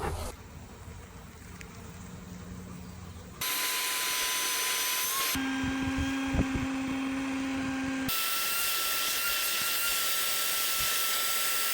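A small motor running steadily with a whine, heard in several short clips that cut abruptly, with the pitch of the whine changing at each cut. It gets louder about three seconds in.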